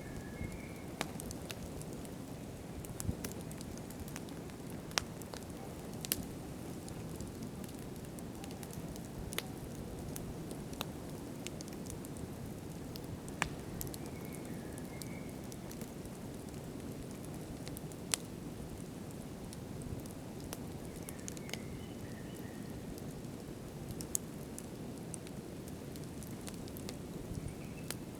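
Wood campfire burning: a steady low rush of flames with irregular sharp crackles and pops every second or two. A few faint short chirps come through now and then.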